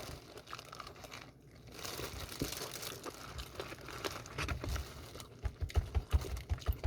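Crinkly rustling and crunching as seasoned fried chicken is handled and eaten, with a run of soft, rhythmic chewing thuds in the second half.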